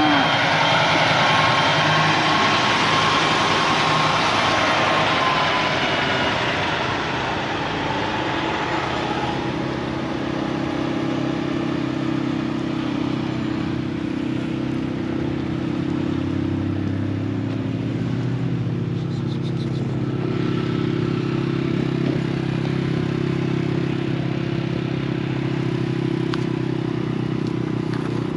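Motor vehicle engine running steadily, with a louder rush of road noise in the first several seconds that then eases off.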